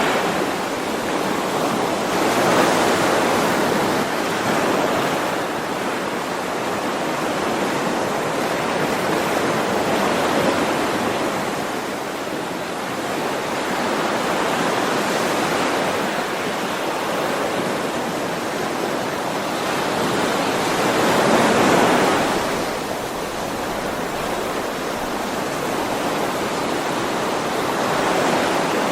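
Ocean waves: a steady hiss of surf that swells louder as each wave comes in, four times, several seconds apart.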